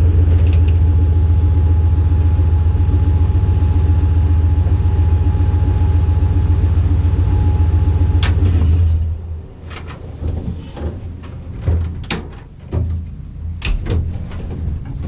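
Car engine idling with a steady low rumble, shut off about nine seconds in, followed by a series of clicks and knocks.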